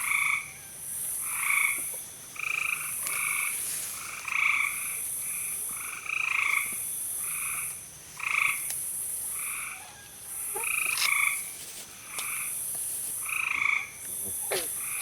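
Frogs calling in a chorus: short croaks repeating about twice a second, with a high-pitched buzz pulsing about once a second behind them.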